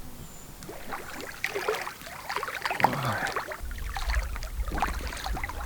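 Water splashing and sloshing in irregular bursts, from a person moving in lake water by a packraft. A low rumble comes in a little past halfway.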